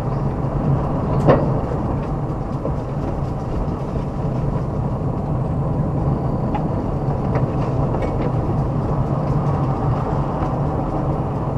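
Car driving along a forest road: steady engine and road noise, with one sharp knock about a second in.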